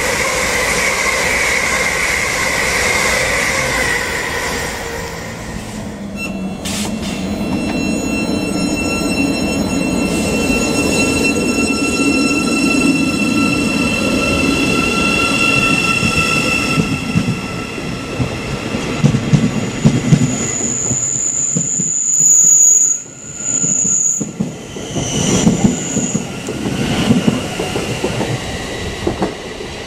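An LNER Azuma electric train passing at speed with a steady hum that falls away, then a Class 717 electric multiple unit with steady electric whining tones, which pulls out and clatters over the rail joints and points, its wheels squealing loudly a few times near the end.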